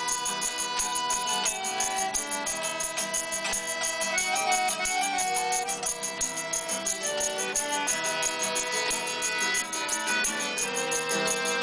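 Several acoustic instruments playing together in an amateur improvised jam, with sustained notes over a fast, steady tick, and an out-of-tune violin among them.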